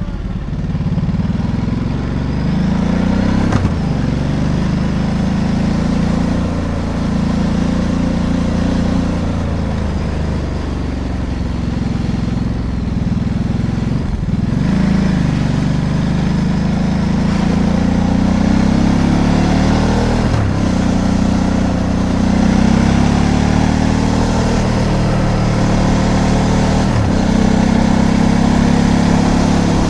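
Ducati DesertX Rally's 937 cc Testastretta V-twin engine on the move, its pitch climbing and falling with the throttle. The sound breaks off sharply four times, each followed by a fresh climb in pitch, as through gear changes.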